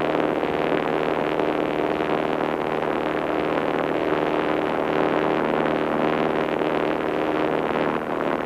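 A 1948 Cessna 140's air-cooled flat-four engine and propeller droning steadily at cruise power, heard from inside the cabin with a wash of airflow noise.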